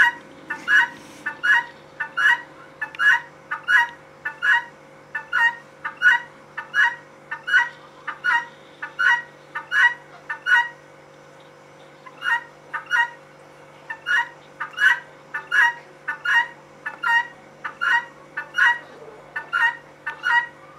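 Female guinea fowl giving her two-note "buck-wheat" call over and over, about once a second, with a short pause about halfway through.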